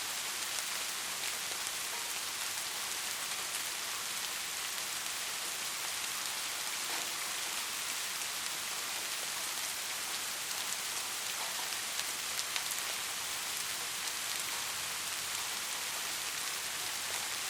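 Steady heavy rainfall, a dense even hiss of drops with a few sharper individual drop hits scattered through it.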